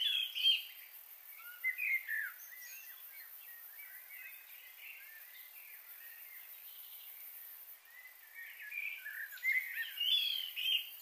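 Birds calling with short chirping notes, in busy clusters near the start and again in the last few seconds, with scattered quieter calls between, over a steady faint hiss.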